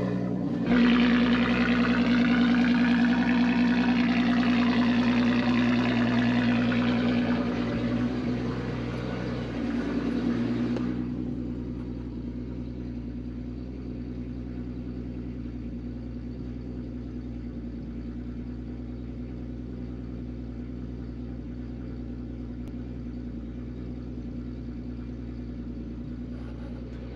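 Turbocharged 12-valve VR6 engine idling during warm-up after a cold start. For about the first ten seconds it is louder, with a shifting hiss over the steady engine note. Around eleven seconds in it drops to a quieter, steady idle.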